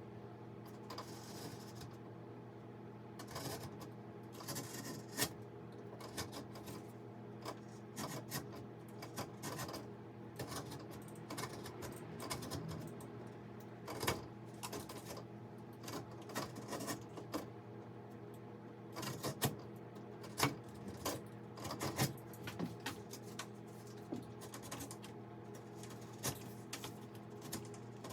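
Irregular light clicks and knocks, scattered at uneven intervals, over a steady low hum.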